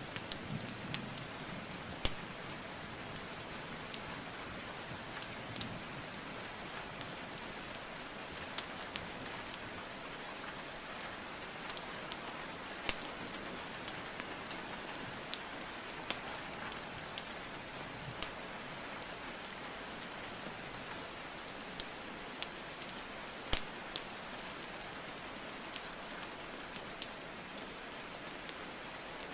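Steady rain hiss with irregular sharp pops and crackles of burning wood logs scattered through it, the loudest pops about 2 seconds in and near 23 seconds in.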